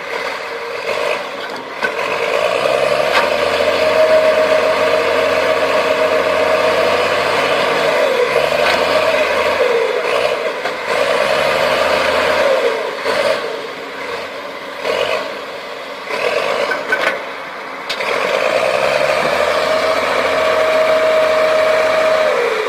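Heavy diesel engines of an excavator and a crawler bulldozer revving hard under load while the bulldozer is being pulled out of mud. There are two long surges of high revs with shorter bursts between, and the revs drop away just before the end.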